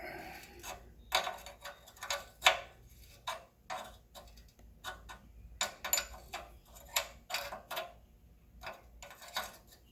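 A wrench is working seized, rusty nuts on a Honda trash water pump, giving sharp metallic clicks in short runs about once a second.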